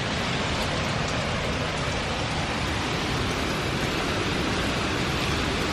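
Heavy wind-driven hurricane rain pouring down as a steady, dense hiss.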